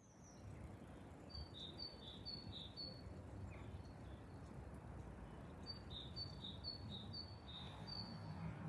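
Faint outdoor ambience: a songbird sings two runs of short repeated chirps that alternate between two pitches, one run starting about a second in and another a little after the middle, over a low steady rumble.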